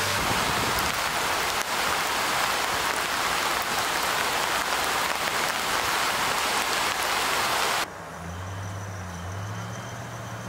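Steady heavy rain, a dense even hiss. About eight seconds in it cuts off suddenly to the quieter low hum of a pickup truck's engine running as it tows a car through snow.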